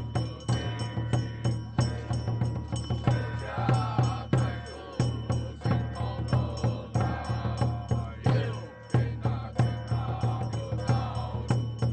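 Taoist temple ritual music: steady percussion strikes about two to three a second, under a wavering chanted melody.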